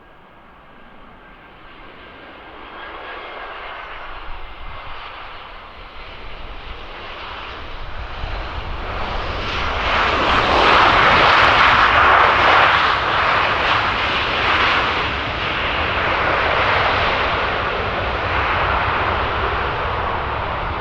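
Jet aircraft engines passing close, the noise building to a peak about halfway through and then slowly easing off.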